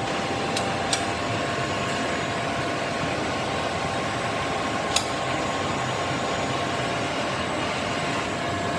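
Steady mechanical running noise with a faint whine, broken by a few sharp clicks: about a second in and again near the middle.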